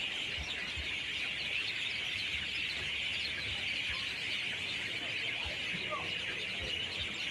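A dense evening chorus of many birds twittering at once: a steady wash of overlapping chirps with no break, and scattered louder single calls standing out over it.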